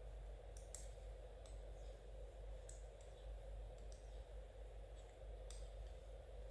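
Knitting needles clicking against each other, a handful of soft irregular clicks over a steady low background hum.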